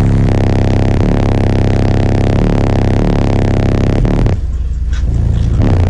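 Loud, bass-heavy music played through a truck-mounted car-audio system of sixteen 12-inch subwoofers in side boxes. The heavy low bass carries on throughout, and the higher range thins out briefly about four and a half seconds in.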